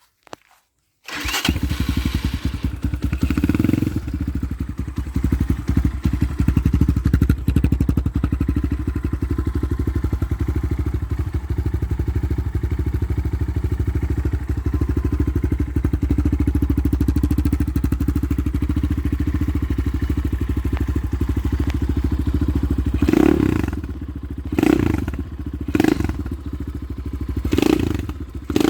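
Regulmoto ZR 250's single-cylinder four-stroke engine starting about a second in and then idling steadily. Near the end it is revved in four short throttle blips.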